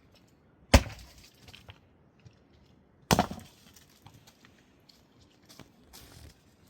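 Two heavy, sharp blows about two and a half seconds apart, with small knocks and clicks between them.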